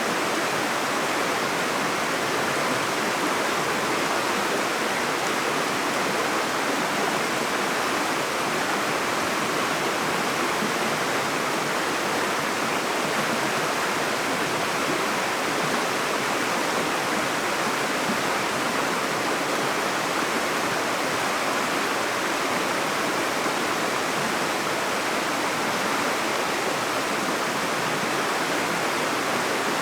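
Running water of a stream rushing steadily, an even, unbroken hiss with no pauses.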